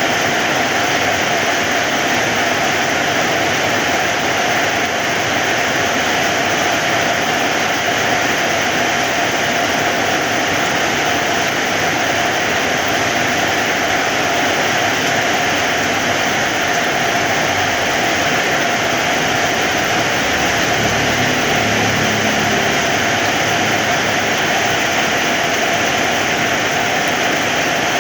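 Heavy rain falling steadily: a dense, even hiss of raindrops with no let-up.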